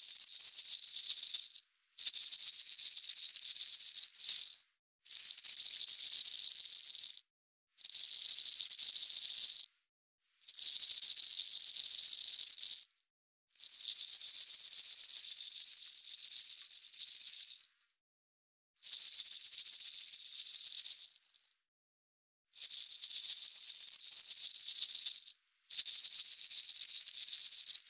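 Repeated bursts of a high-pitched hissing, shaking noise. There are about nine of them, each two to four seconds long, with short silent gaps between.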